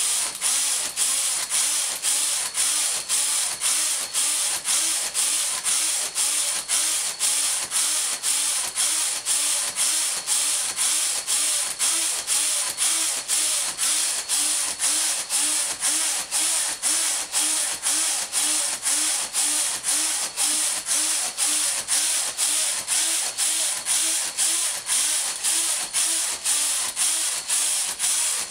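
Hand-framed knitting machine carriage being pushed back and forth across the needle bed, knitting row after row: an even rhythmic sliding and clacking, about two passes a second.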